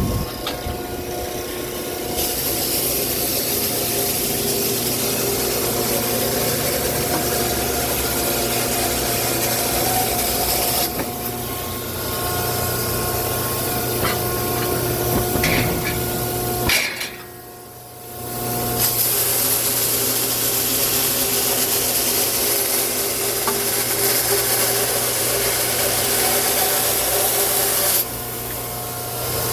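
Firewood-processing machinery running: a steady motor hum under long stretches of wood being cut or rasped. The cutting noise breaks off briefly a few times, with a deeper lull about two-thirds of the way through.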